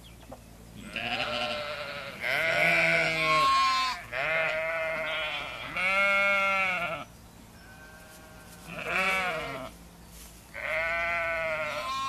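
Sheep bleating: about six long, quavering bleats one after another, at differing pitches.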